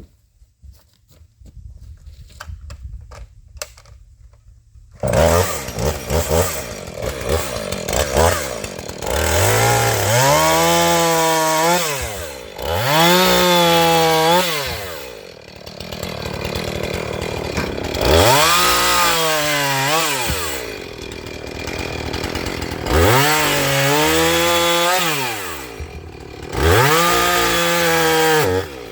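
Husqvarna two-stroke chainsaw starting about five seconds in after a few faint clicks, then revved to full throttle and eased back about five times as it cuts wood, idling lower between cuts.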